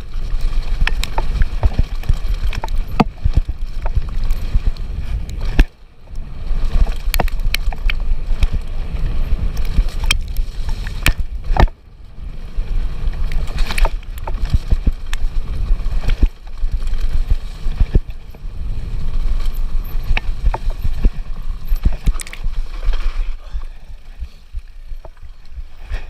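Votec VE 160 Pro enduro mountain bike riding fast downhill on a dirt forest trail, heard through a GoPro action camera: a constant low rumble of wind and tyres with frequent rattling knocks and clacks from the bike over the rough ground. The noise drops off sharply for a moment twice, about 6 and 12 seconds in, and eases toward the end.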